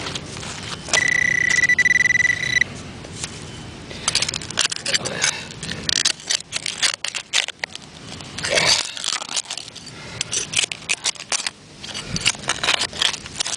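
A metal detector gives one steady high-pitched tone lasting about a second and a half, the signal of a coin-like target. Then a digging tool scrapes and crunches into gravel in quick irregular strokes.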